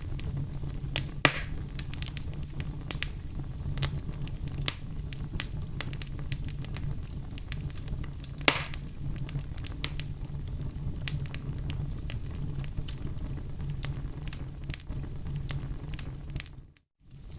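Wood fire in a fireplace crackling, with a steady low rumble and many small sharp pops, two louder pops among them. The sound cuts out briefly near the end and then resumes.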